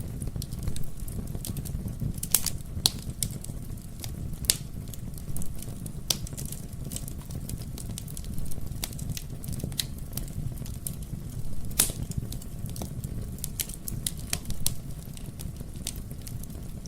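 Wood fire burning in a fireplace, with a steady low rumble and irregular sharp crackles and pops, a few louder pops scattered through.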